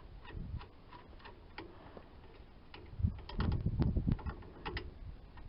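Light, irregular metal clicks and ticks as a bolt is unscrewed from the seed planter's hopper, working its nut loose. Wind rumbles on the microphone for a couple of seconds past the middle.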